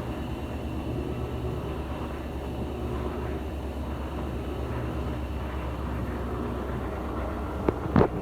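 Electrolux LTC15 top-loading washing machine in its spin cycle, its drum spinning with a steady low hum and rumble. Near the end come three quick sharp knocks.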